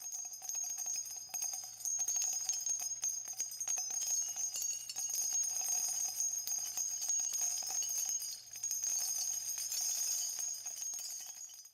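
Steady jingling of small bells, a bright shimmer with many small clicks, fading out at the end.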